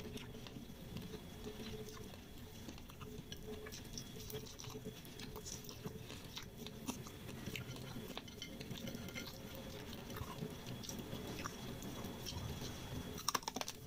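A person chewing crispy fried noodles close to the microphone: faint chewing with many small crunchy clicks and mouth ticks, and a short cluster of sharper clicks near the end.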